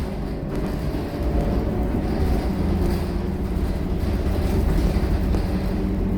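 Scania K230UB bus's five-cylinder diesel engine running steadily while the bus is under way, a low, even drone with road noise.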